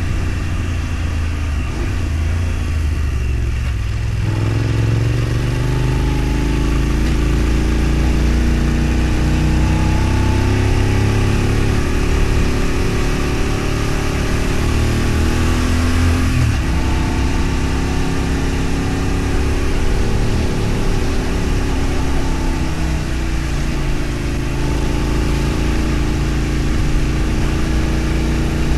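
A road vehicle's engine running while driving, with a steady rush of road and wind noise. Its pitch changes about four seconds in and again around sixteen seconds, as it speeds up or shifts.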